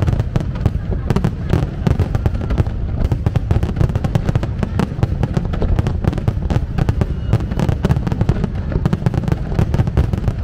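Aerial fireworks display: a dense, continuous barrage of bursts and crackles, many a second, over heavy low booms.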